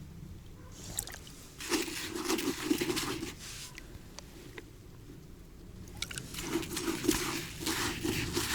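Dry groundbait being poured out of its packet into a container, in two spells of pouring and rustling.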